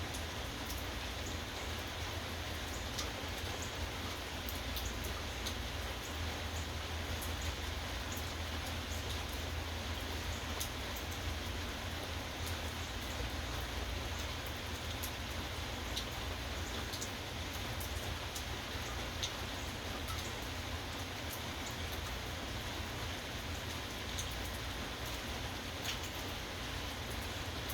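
Steady rain, with scattered individual drops ticking sharply on a surface and a steady low rumble underneath.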